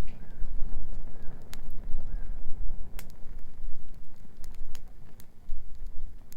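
Wood bonfire crackling, with scattered sharp pops, over a steady low rumble. Short arching calls from a bird sound about once a second through the first half.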